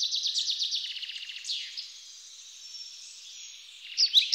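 Birds singing: a fast high trill in the first second and a half ending in a falling note, a quieter stretch, then sharp repeated chirps starting near the end.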